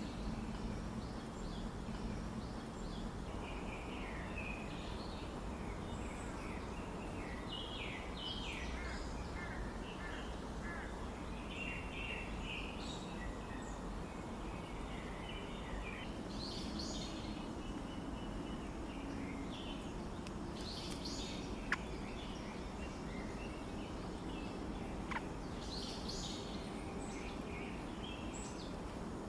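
Many short, high bird chirps and call notes, coming in clusters throughout, over a steady low background noise, with two sharp clicks in the second half.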